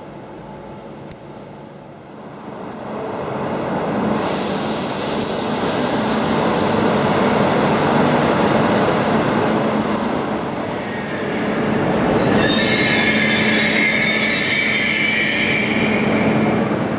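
TCDD YHT high-speed train (HT65000 set) moving along a station platform: a rush of running noise builds over the first few seconds and holds steady. From about twelve seconds in, a high, wavering squeal rides on top of it.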